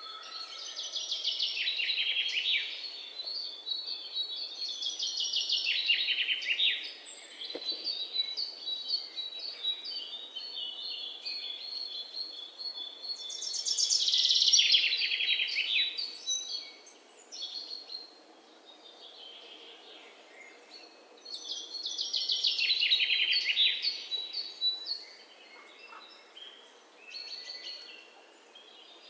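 Birds singing: four loud phrases of rapid trilled notes, each falling in pitch, come every several seconds. Between them runs a thinner, high chirping.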